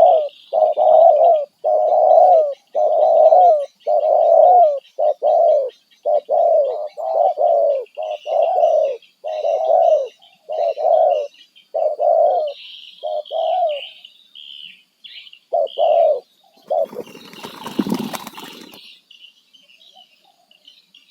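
A dove cooing in a long, quick series of repeated coos, with smaller birds chirping faintly higher up. The coos stop at about 16 seconds, and a loud rustling noise follows for about two seconds near the end.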